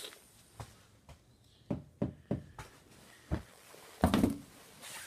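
Handling noise indoors: a series of irregular knocks and thumps, the loudest and longest a heavier thump about four seconds in.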